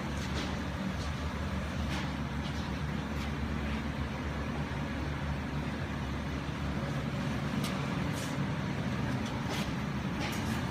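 A steady low mechanical hum, like an engine or motor running, with a few light clicks near the end.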